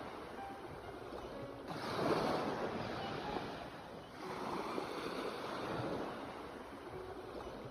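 Sea waves breaking and washing in, in two surges: one about two seconds in and another about four seconds in, each swelling and then ebbing away.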